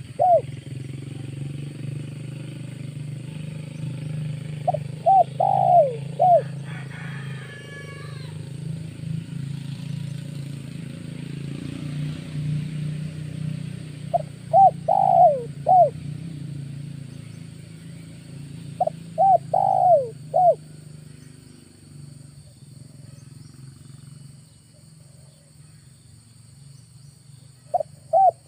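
Spotted dove cooing: four short phrases of several falling notes each, several seconds apart. A low steady hum runs underneath and fades out about two-thirds of the way through.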